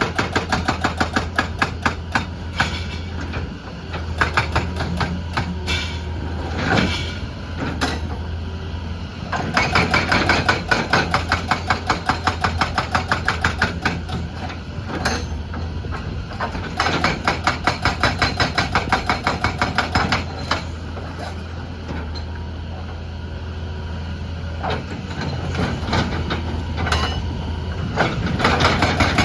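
Excavator-mounted hydraulic rock breaker hammering in bursts of rapid blows, about five a second, with pauses between bursts. Under it runs the steady drone of the excavator's diesel engine.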